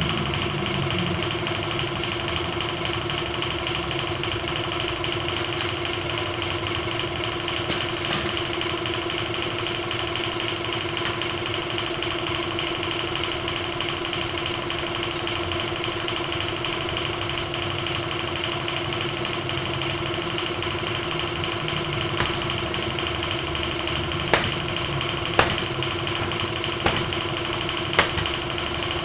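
A motor running steadily with a constant hum, joined in the last several seconds by a string of sharp knocks about once a second.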